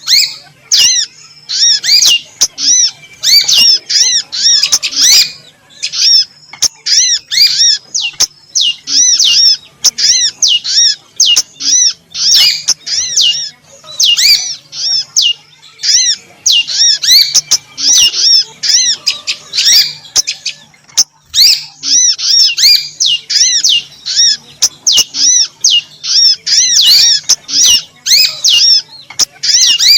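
Female small-songbird calls played as a lure (pikat): rapid runs of high, arched chirps, several a second, in bursts separated by short gaps, over a faint steady hum.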